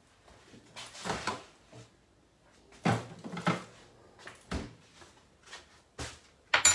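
Irregular kitchen handling sounds: knocks and clatter of utensils and containers being moved about on the counter, ending in a sharp, ringing clink.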